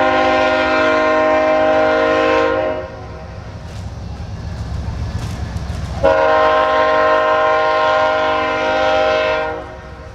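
CSX freight locomotive's air horn blowing two long blasts of a multi-tone chord, a few seconds apart, the first already sounding at the start, over the low rumble of the approaching train.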